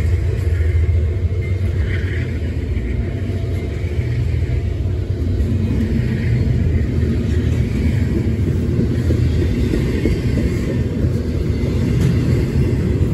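Double-stack intermodal container train rolling past on steel wheels: a steady, loud low rumble of wheels on rail.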